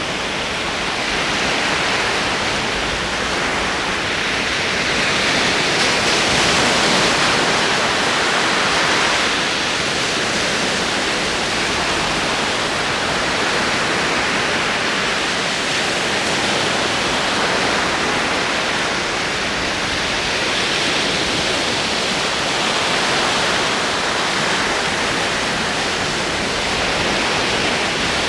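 Ocean surf rolling onto a shore: a continuous wash of breaking waves that swells and eases slowly every several seconds.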